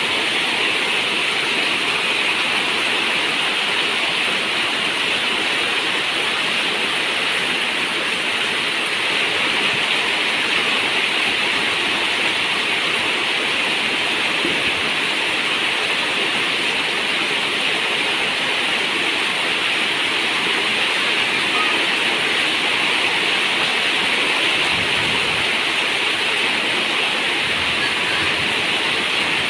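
Rain falling steadily on a zinc roof, a dense, even hiss with no letup.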